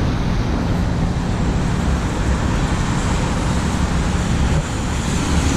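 Street traffic noise: passing motor vehicles with a steady low engine rumble.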